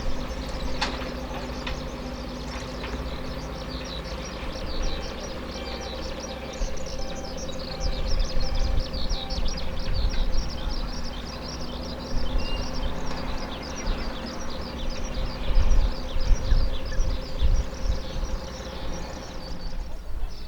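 Steady hum of an aircraft tow tractor's engine idling, with rapid high-pitched chirping building over it from about six seconds in, and irregular low rumbling. All of it cuts off abruptly near the end.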